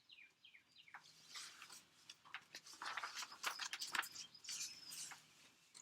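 Outdoor birds chirping in short repeated calls, some sliding quickly down in pitch, against light rain dripping and pattering.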